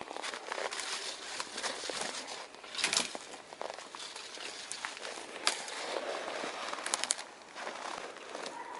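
Small twig campfire crackling, with sharp pops and snaps as freshly added thicker twigs catch.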